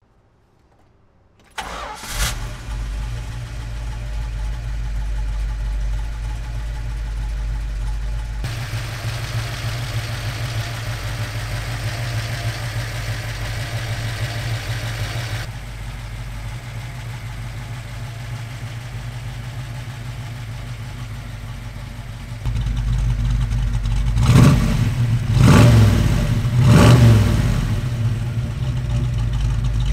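1969 Dodge Dart's 440 cubic inch Chrysler RB V8 with Six Pack triple carburettors and large-diameter exhaust with turbo mufflers, cranking and catching about a second and a half in, then settling into a steady idle. Near the end it is revved three times in quick succession, each rev rising and falling back to idle.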